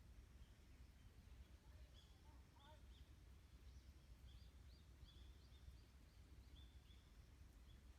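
Faint birdsong: short high chirps repeated every second or so, with a few lower notes about two and a half seconds in, over a low rumble of wind.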